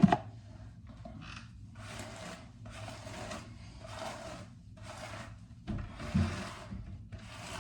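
A comb drawn repeatedly through hair, making about seven scratchy strokes roughly a second apart.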